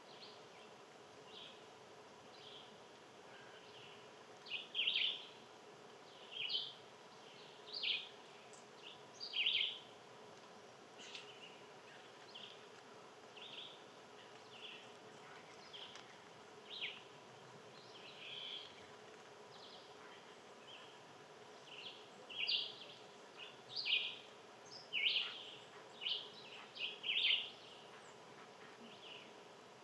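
Small birds giving short, high chirps and calls, scattered irregularly with louder bursts of several in a row twice, over a faint steady background hum.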